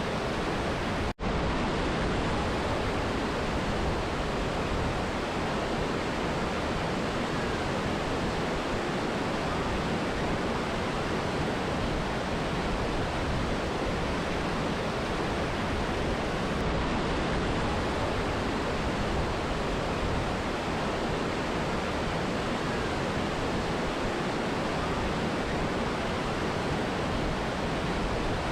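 Steady, even rushing of a mountain river and waterfall, with a momentary dropout about a second in.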